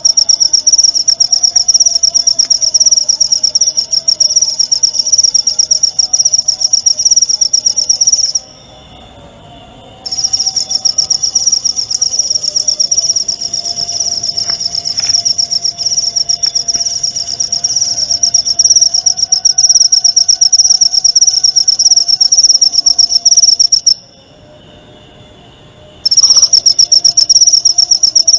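Cricket (jangkrik) singing a long, high-pitched, rapidly pulsing trill. It breaks off twice for about two seconds before resuming.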